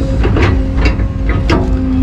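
Excavator's diesel engine running at a steady speed, with about six sharp knocks or clanks over the two seconds.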